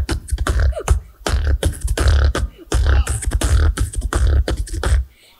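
Solo beatboxing into a microphone: deep bass kicks under sharp snare and hi-hat clicks in a quick rhythm, with a brief drop-out near the end.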